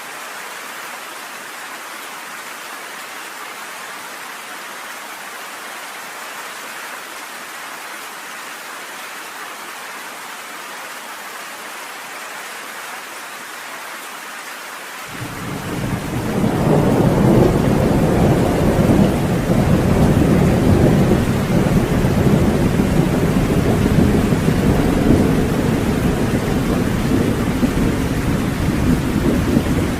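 Steady rain hissing, then about halfway through a long deep rumble of thunder rolls in and keeps rumbling loudly for the rest of the time over the rain.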